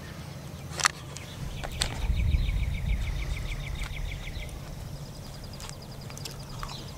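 Small birds trilling: a rapid, evenly pulsed trill, then a second, higher trill near the end. Two sharp clicks about a second in and a low rumble in the middle.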